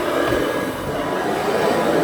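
Rebuilt Kirby 517 vacuum cleaner running steadily, its motor and fan giving a loud, even rushing hum.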